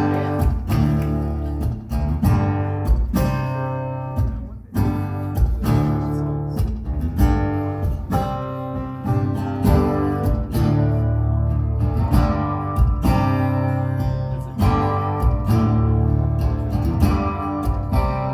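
Acoustic guitar strumming the instrumental opening of a song in a steady rhythm, with sustained low notes under the chords.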